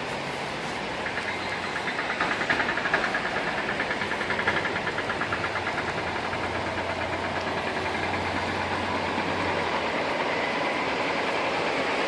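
An engine running with a low steady hum and a rapid, regular ticking, over steady noise.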